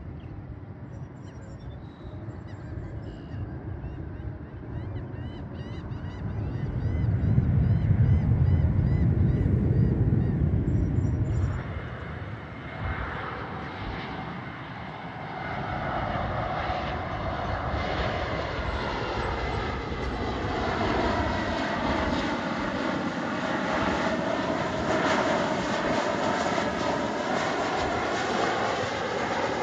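Arriving Qatar Airways Boeing 777-300ER's GE90 engines giving a low rumble that swells about seven to eleven seconds in, with birds chirping. After a cut near twelve seconds, an arriving Delta Airbus A321neo's engines come in with a whine of several gliding tones, slowly growing louder.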